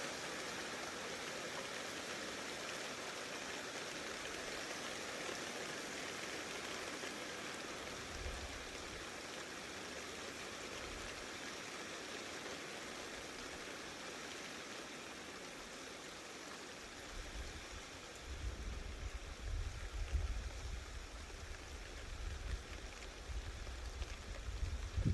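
Steady rain falling during a thunderstorm, an even hiss. In the last several seconds, uneven low rumbles come and go and grow louder near the end.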